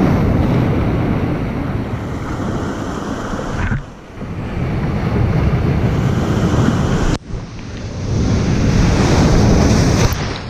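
Ocean waves crashing and surging onto the shore, with wind buffeting the microphone. The roar drops away sharply twice, about four and seven seconds in, then builds again.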